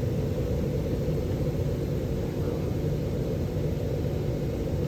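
Steady, loud vehicle rumble, a low drone of engine and road or air noise as heard from inside a moving vehicle.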